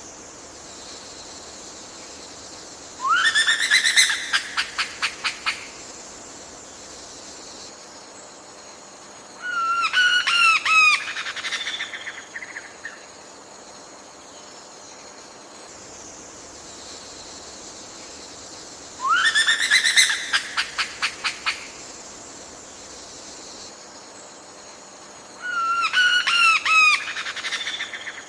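Forest bird calls in four bouts, each a sharp rising note followed by a quick run of clicks and chatter, over a steady high hiss of insects.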